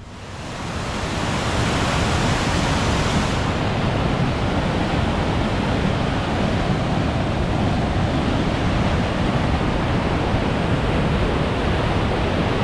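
Small waterfall, its water rushing steadily. The rush swells up over the first second or two, then holds at the same level.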